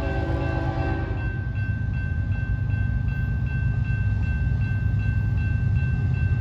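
A BNSF freight train's GE diesel locomotives rumbling as they approach, with the last of a chord horn blast ending about a second in. A grade-crossing bell dings steadily throughout.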